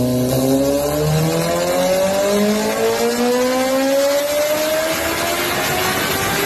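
Kawasaki Ninja ZX-10R's inline-four engine running, its pitch climbing slowly and steadily as the revs rise.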